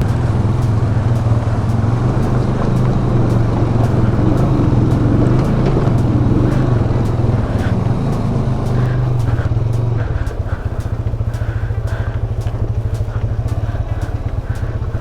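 Motorcycle engine running under throttle while riding, a steady low drone; about ten seconds in it eases to a lighter, evenly pulsing note as the throttle is rolled off.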